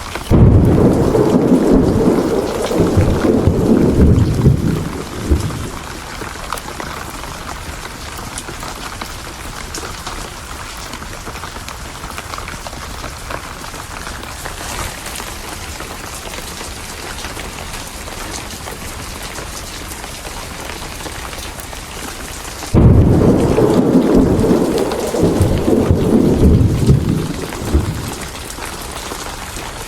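Steady rain with two rolls of thunder. Each starts suddenly and rumbles low for about five seconds: the first right at the start, the second about twenty-three seconds in.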